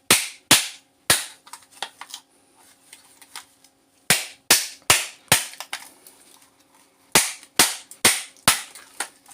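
Hard blows, most likely a hammer, bashing a plastic AC power adapter case to crack it open and reach the copper transformer. Sharp knocks come in three bursts of three or four, a little under half a second apart, with pauses between.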